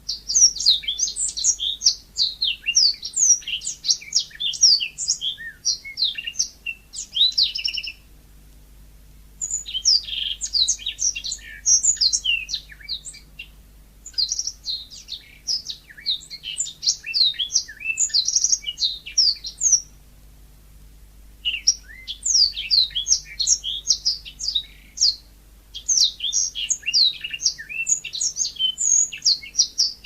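Yellow-fronted canary (Mozambique canary) singing: fast, high twittering song in bouts of a few seconds each, about five of them, with short pauses between.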